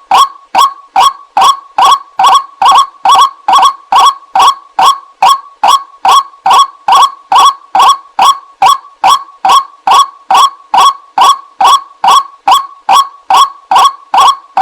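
White-breasted waterhen (ruak-ruak) lure call: loud, short, strident notes repeated at an even pace, about two to three a second, without a break.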